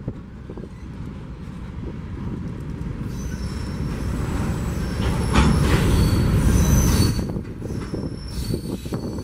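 Freight train cars rolling past over the rails, with thin high-pitched wheel squeal coming in about three seconds in. The rumble is loudest around the middle, then eases.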